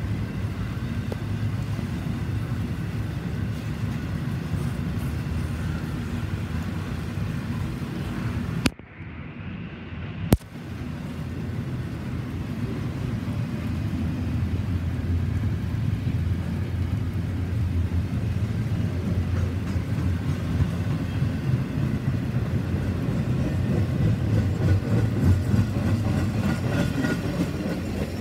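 Double-stack intermodal freight train rolling past, a steady low rumble of steel wheels on rail with faint high ringing above it. About nine seconds in, the sound cuts out for about a second and a half and returns with a sharp click.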